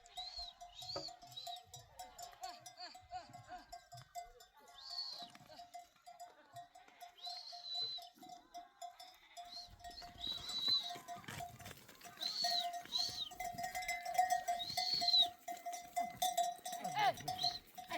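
Neck bells on a flock of sheep and goats on the move, clinking and ringing again and again, more often in the second half, with the animals shuffling along.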